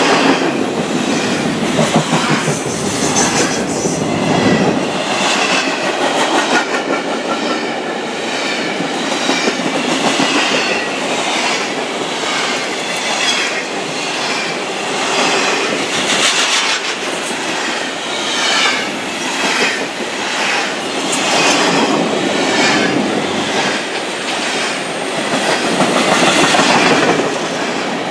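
Empty intermodal well cars of a freight train rolling past at speed. Steel wheels clack over the rail joints in a steady repeating rhythm, with the cars rattling.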